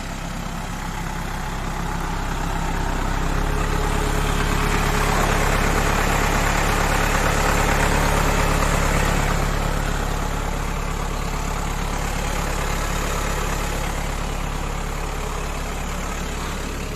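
Tow truck's engine running steadily, its note stepping up about three seconds in as the hydraulic system is worked, with a rushing hiss that swells through the middle and then eases back.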